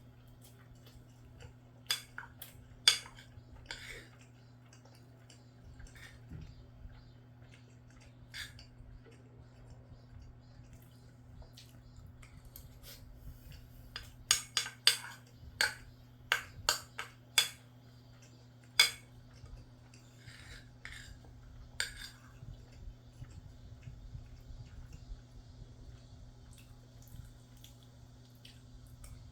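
Eating utensils clicking and scraping against a dish as someone eats, in scattered sharp taps with a quick run of them about halfway through, over a faint steady low hum.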